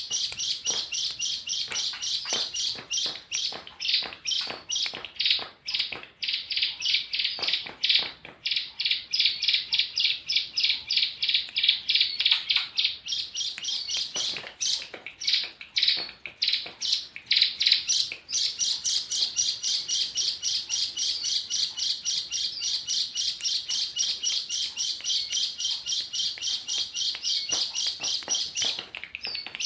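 A tame bird chirping without a break: a rapid train of short, high chirps, about four a second, that loosens into irregular chirps for a few seconds midway.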